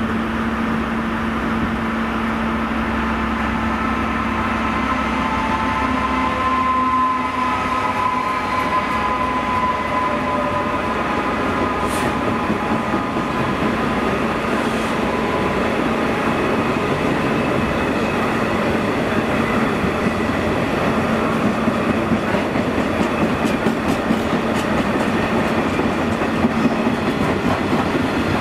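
Diesel-hauled freight train rolling through a station as a long line of wagons passes close by, with a steady rumble and clatter of wheels on rail. A high ringing wheel squeal comes in for a few seconds about seven seconds in, and sharper rail-joint clicks come near the end.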